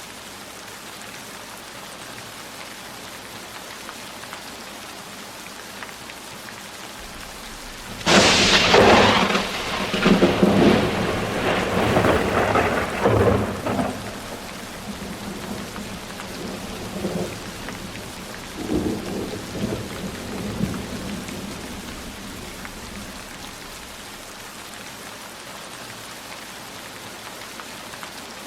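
Steady heavy rain, broken about eight seconds in by a sudden thunderclap that rumbles on for several seconds and fades. A second, weaker roll of thunder follows around twenty seconds in.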